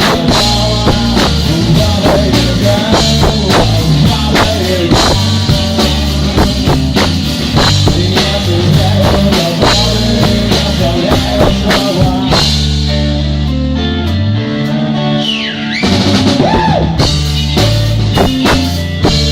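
Rock band playing: drum kit, bass and electric guitar. About twelve seconds in the drums drop out for a few seconds while the bass slides up, then the full band comes back in.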